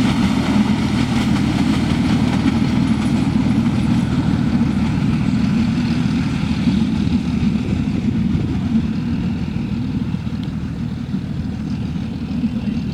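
Diesel engine of a narrow-gauge train running as the train departs: a steady low drone that grows a little quieter over the last few seconds.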